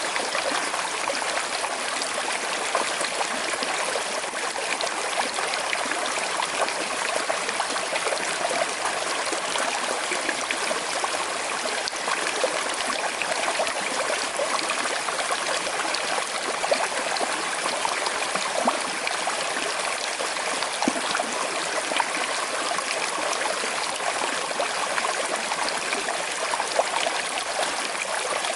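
Small, slow-flowing river running over stones: a steady babble and trickle of water with constant small splashes and gurgles.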